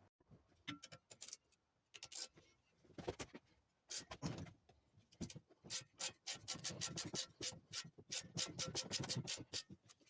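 Ratchet wrench clicking as a bolt is undone to take apart a minibike's front fork. A few scattered knocks of tools come first; then, about halfway through, a quick steady run of ratchet clicks, about five a second.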